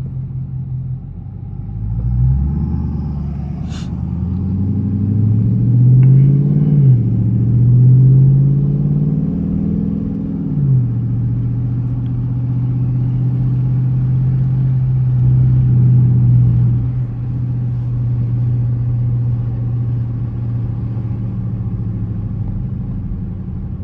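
Dodge Charger R/T's 5.7-litre HEMI V8 under hard acceleration: the engine note climbs, drops at an upshift about a quarter of the way in, climbs again and drops at a second upshift near the middle, then runs at a steady cruise.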